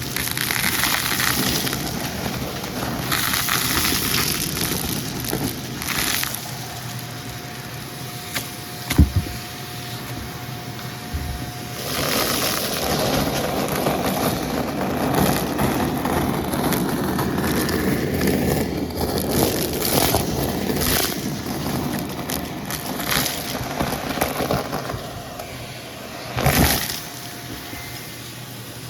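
Vacuum cleaner running and sucking up crunchy debris, with steady suction noise and many crackles and clicks as bits rattle through. A louder knock comes about nine seconds in and another near the end.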